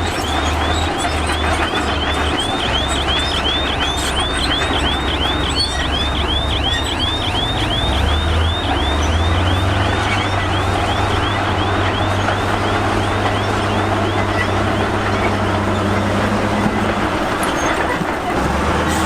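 Heavy diesel earthmoving machinery at work: a steady low engine hum with a noisy clatter. Through the first half a fast run of short, high chirps, about four a second, fades out.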